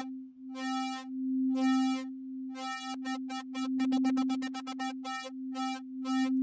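Arturia Pigments wavetable synthesizer holding one steady note while an LFO sweeps the wavetable position, so the tone turns bright and dull in a pulsing rhythm. The pulses quicken to about five a second midway and then slow again as the LFO sync rate is changed.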